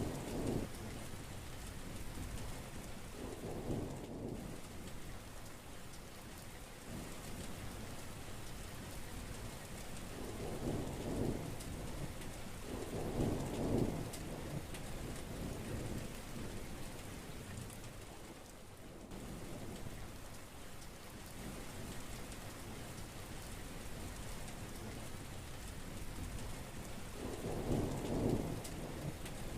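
Heavy rain falling steadily, with several low rumbles of thunder swelling and fading through it, the strongest about halfway through and near the end.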